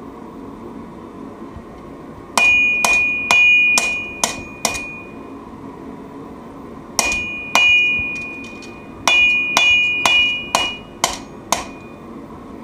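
Hand hammer striking hot steel on an anvil while forging a knife, with a clear metallic ring after each blow. The blows come in three runs of about half a dozen strikes, roughly two a second.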